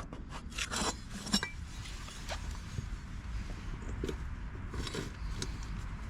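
A few quick scraping strokes in the first second and a half, then faint scattered clinks over a steady low rumble.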